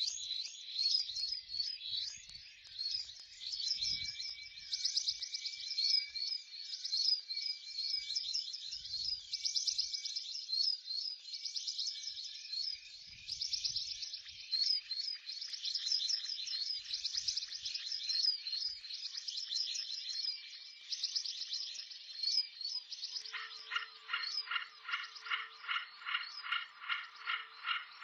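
Small birds at feeders chirping rapidly and continuously in a dense, overlapping chatter. About three-quarters of the way through, a lower, evenly repeating chirp of several pulses a second comes in over a faint steady hum.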